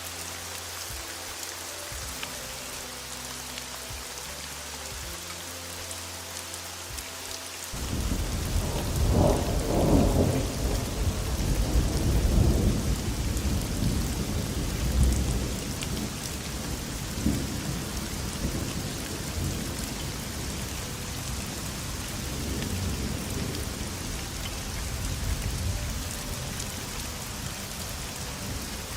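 Heavy rain falling steadily. About eight seconds in, a long roll of thunder starts; it is loudest soon after and rumbles on, fading away near the end.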